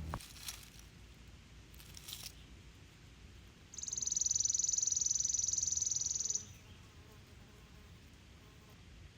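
An insect trilling: one high, rapid buzzing trill lasting about two and a half seconds, starting around four seconds in. A couple of faint clicks come before it.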